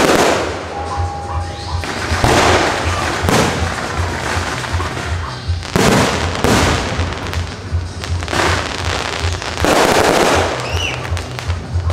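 Aerial firework shells bursting overhead, a loud bang every second or two, each trailing off in a crackling fade.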